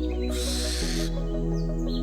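A barn owl's screech: one harsh, hissing shriek under a second long, starting a fraction of a second in, over soft background music.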